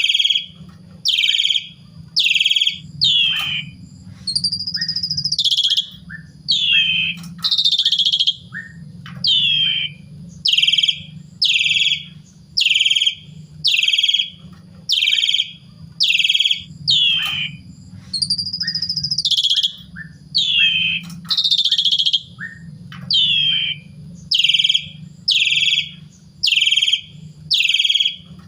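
Javan pied starling (jalak suren) singing a rapid series of short, falling chirps, a little more than one a second. The chirps are broken twice by a longer rising-and-falling whistle, over a steady low hum.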